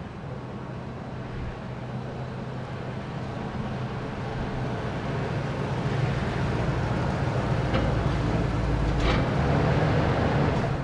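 Vehicle running steadily: a low engine hum over road noise that grows gradually louder.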